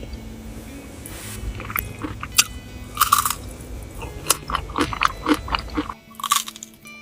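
A quick, irregular series of crisp crunches and clicks over a low steady hum, which changes abruptly about six seconds in.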